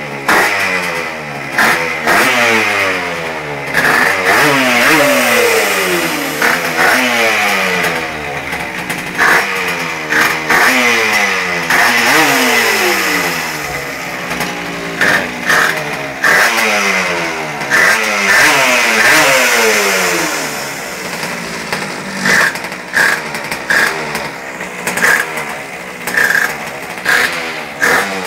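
Polini 911 pocket bike's small two-stroke race engine being revved over and over, its pitch climbing and falling with each blip of the throttle, with short sharp cracks scattered between the revs.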